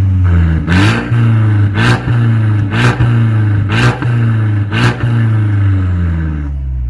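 Mercedes-Benz E250's turbocharged four-cylinder engine running through an aftermarket valvetronic exhaust, a steady low drone with its pitch shifting slightly. Sharp hits cut across it about once a second.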